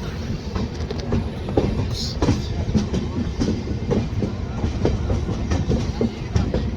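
Passenger train running along the track, a steady rumble with the wheels clattering over rail joints in repeated short knocks.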